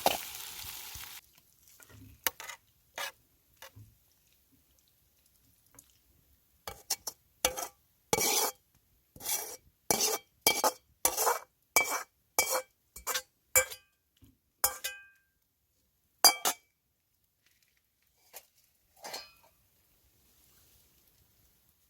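A utensil clinking and scraping against a wok: about twenty irregular sharp metal clinks with a short ring, after a hissing noise that cuts off about a second in.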